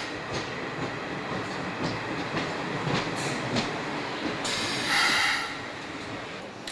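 Slam-door electric multiple unit running into a station platform: a steady rumble with wheels clicking over rail joints, and a louder burst of noise lasting about a second around five seconds in.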